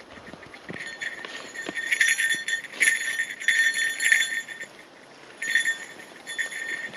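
Bear bell jingling in quick shakes with each footstep of a walking hiker, a run of jingles from about a second in, a short pause, then another run near the end.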